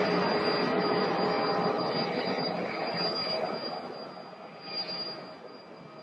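Jet noise from a Boeing 717's two rear-mounted turbofans: a loud rush with a thin high whine, fading away over the second half.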